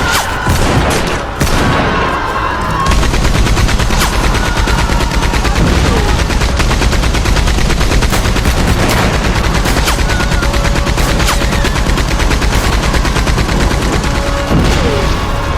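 Gunfire in a trench battle: scattered rifle shots at first, then from about three seconds in a sustained burst of rapid machine-gun fire that runs on with more single shots cracking over it.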